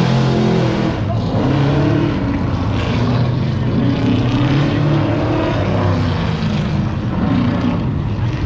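A car's engine being driven hard through an autocross course, its note repeatedly rising and falling as the driver accelerates and lifts between the cones.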